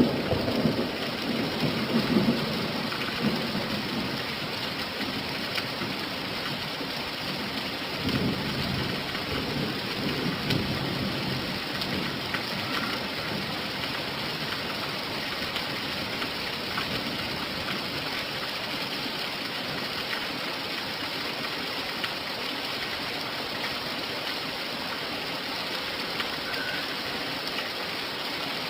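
Steady rain falling, an even hiss. Low rumbles of thunder die away in the first few seconds, and a weaker rumble comes about eight seconds in.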